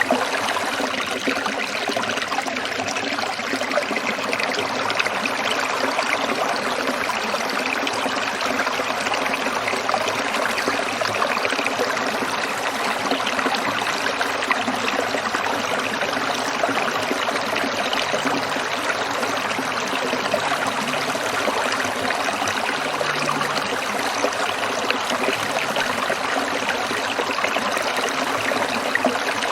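A small stream trickling and babbling steadily over stones, an even splashing water sound with no breaks.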